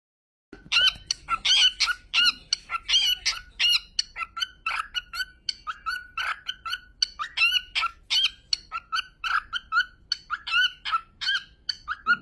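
A parrot calling over and over in short, rapid pitched calls, several a second, starting about half a second in and keeping on without a break.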